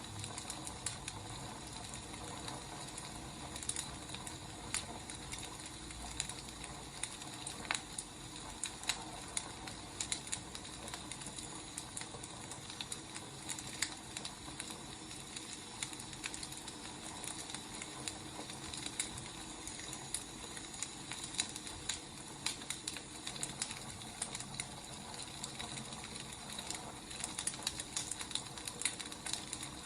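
Wood fire crackling: irregular pops and snaps over a steady soft hiss.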